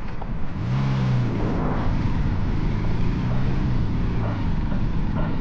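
Motorcycle engine running under way, with a steady rumble and road noise; its note comes up strongly under a second in and then holds.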